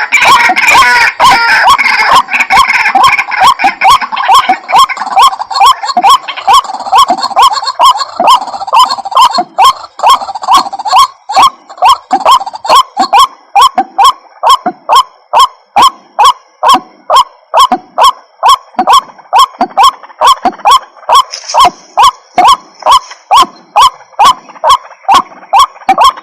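White-breasted waterhen calling: a loud, monotonous series of harsh 'kru-ak' notes, about two a second. The notes are crowded and overlapping at first, then settle into a steady, regular rhythm.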